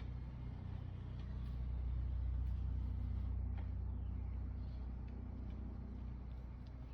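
Roborock Saros 10R robot vacuum running: a low, steady drone that grows a little louder in the middle, with a few faint clicks.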